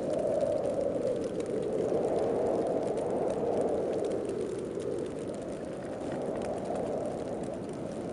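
Wind of a heavy snowstorm blowing steadily, swelling and easing in slow gusts every few seconds.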